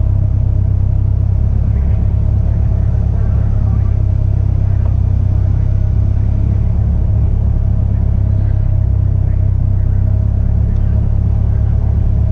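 Caterham Seven race car's engine idling steadily while stationary, a loud, even low rumble heard from the open cockpit.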